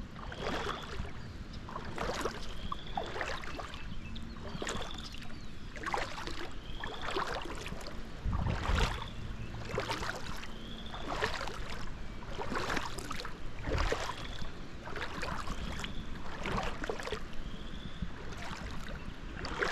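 Boots wading through floodwater about a foot deep, each step sloshing and splashing at a steady walking pace of roughly one step a second.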